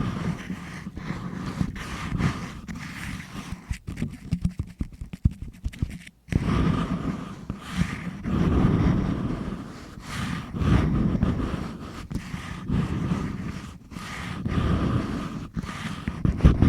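ASMR ear cleaning: a tool scraping and rubbing right against the recorder's microphone, with irregular scratches, soft clicks and a low rumble. It drops almost silent for a moment about six seconds in.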